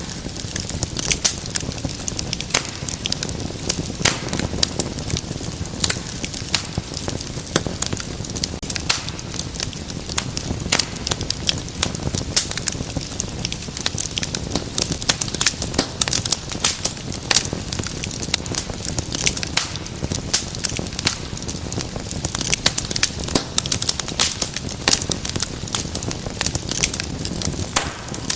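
Wood fire crackling, with frequent sharp pops and snaps over the steady low rush of the flames.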